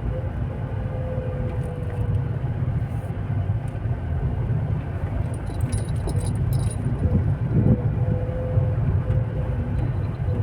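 Steady road and engine rumble of a car being driven, heard from inside the cabin, with a faint steady whine. About five to seven seconds in there is a brief light metallic jingling.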